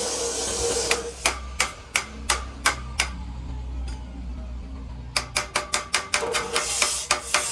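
Hammer blows: a run of sharp taps at about three a second, a pause, then a quicker run at about five a second. A steady rasping noise runs during the first second, before the taps begin.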